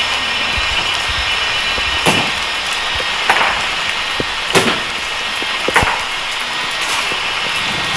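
Four sharp thuds about a second apart from an honor guard's ceremonial drill, over steady heavy rain.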